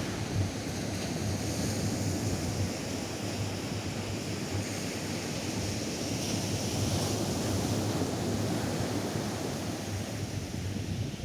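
Atlantic surf washing onto a sandy beach: a steady wash of breaking waves, with a hiss that swells about six seconds in, and wind rumbling on the microphone.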